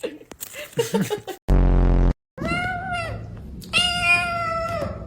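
A house cat giving two long, drawn-out meows, the first rising and falling in pitch, the second held steady. They come just after a loud, low buzz lasting under a second.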